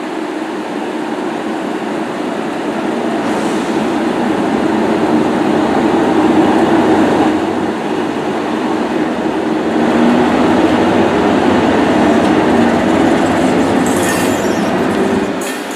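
Class 90 electric locomotive-hauled passenger train pulling out, its motors and wheels growing louder over the first several seconds as it gathers speed, then running on steadily.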